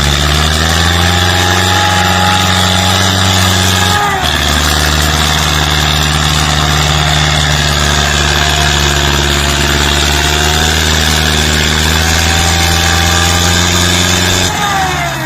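Belarus 510 tractor's four-cylinder diesel engine running loud at steady, high revs, with a brief dip about four seconds in, then falling back near the end.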